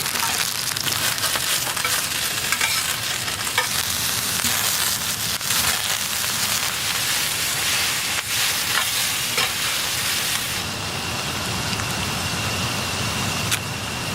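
Food sizzling and crackling in a hot pan, with a few sharp clicks. A faint steady high tone comes in about three-quarters of the way through.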